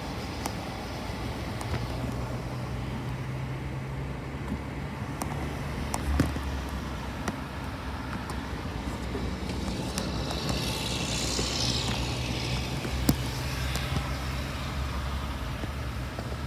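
A car engine runs with a steady low hum, with road and traffic noise, and a brief hissing rush about two-thirds of the way through.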